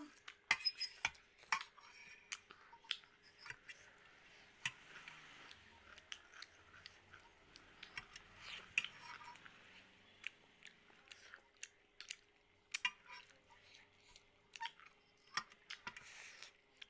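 Close chewing and mouth sounds of people eating noodles and chicken, with irregular small clicks, including a fork clinking and scraping against a steel plate, over a faint steady hum.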